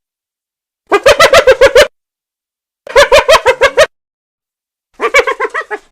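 Hyena giggling: three bouts of rapid, staccato laughing calls, each about a second long at about eight notes a second, with short silences between.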